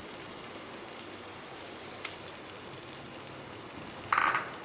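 Chicken and spice paste sizzling in oil in a frying pan, a steady crackling hiss with a couple of small pops. Near the end comes a brief clatter of the stirring spoon against the pan.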